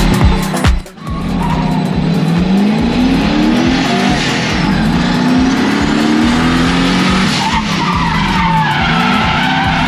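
Drift car at speed: the engine revs repeatedly climb and drop as it is worked hard, over the steady noise of sliding, skidding tyres. A brief dip in sound comes about a second in.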